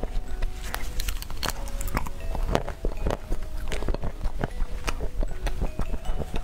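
Close-miked crunching and chewing of thin chocolate decoration pieces: a quick, irregular run of crisp snaps and clicks.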